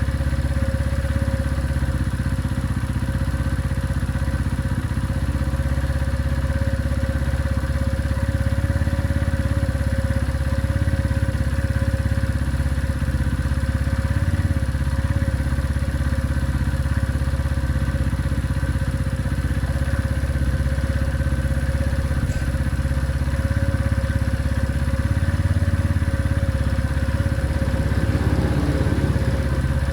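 Benelli Keeway 125 motorcycle engine idling steadily.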